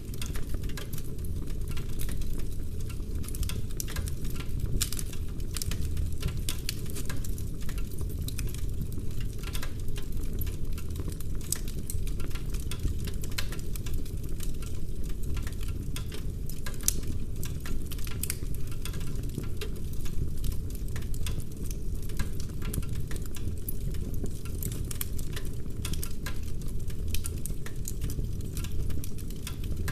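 Wood fire burning in a fireplace, crackling continuously with many irregular sharp pops over a low steady rumble.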